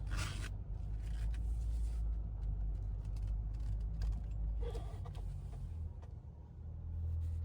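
Car engine running at low revs as the car rolls slowly into a parking lot, a steady low rumble that swells slightly near the end.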